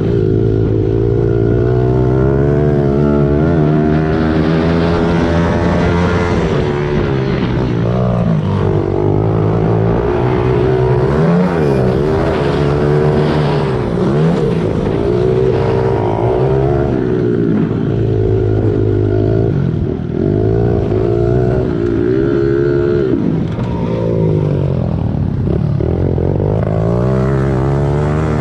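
Small four-stroke single-cylinder pit bike engines revving up and down again and again as they are ridden around a track, their pitch rising and falling with the throttle and at times overlapping with each other.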